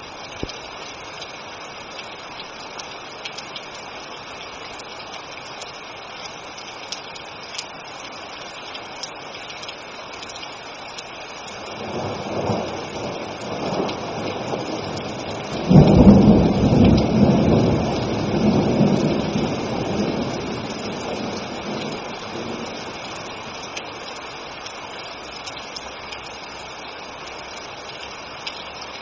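Steady rain with a roll of thunder: a rumble builds about a third of the way in, breaks into the loudest peal near the middle, and rolls away over several seconds, leaving only the rain.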